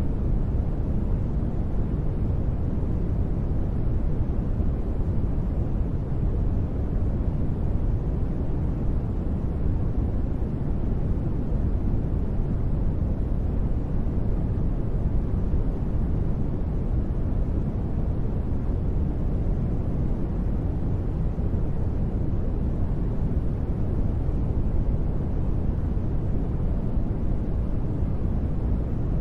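Continuous sleep noise, steady and unchanging, deep and muffled rather than hissy, with most of its weight in the low end.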